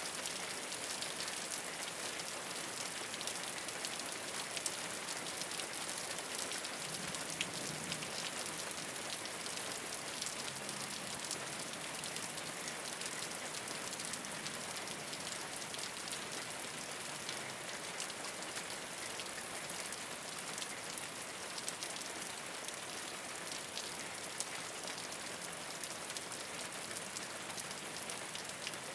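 Steady rain falling on a rooftop, a dense even patter with many individual drops ticking sharply.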